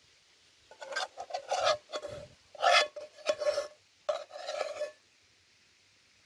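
A utensil scraping against metal cookware in a series of strokes lasting about four seconds, with a ringing metallic note under the scrapes.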